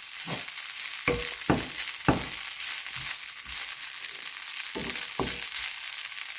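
Crumbled idli upma frying in a nonstick pan: a steady sizzle, with a wooden spatula stirring through it in uneven scraping strokes about every half second.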